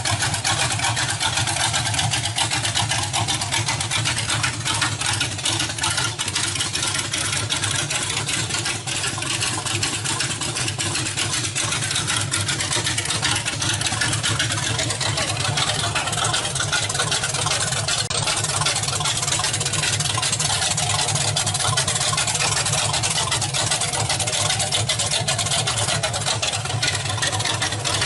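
Small-block Chevy 383 stroker V8 in a 1937 Chevy truck idling steadily, a continuous rapid exhaust pulse.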